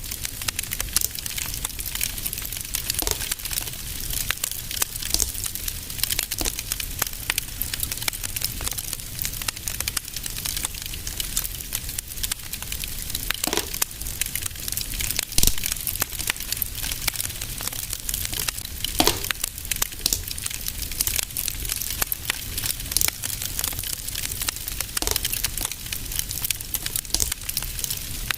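Wood fire in a fireplace crackling steadily, with dense small crackles and a few sharper pops, the loudest about halfway through, over a low steady rumble.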